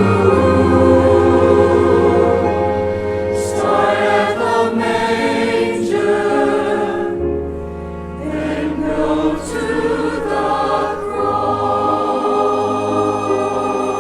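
Church choir singing a slow piece with orchestra accompaniment: held chords over long, steady bass notes.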